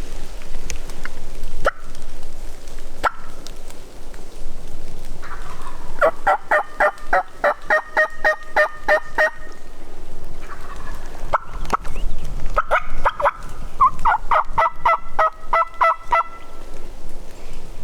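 Wild turkey gobbler gobbling twice, each a rolling, rapidly pulsed call lasting about three to four seconds. The first comes about five seconds in, the second about eleven seconds in. A few faint sharp clicks come before the first gobble.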